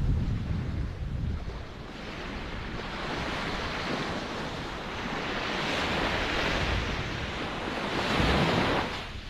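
Ocean surf: a low rumble of breaking waves, then a rising hiss of water washing in that swells twice and falls away near the end.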